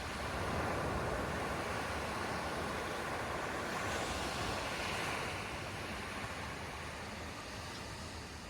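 Atlantic surf washing onto the beach in a steady noisy rush, with one wave breaking more loudly about four to five seconds in before the sound eases off. Wind rumbles on the microphone underneath.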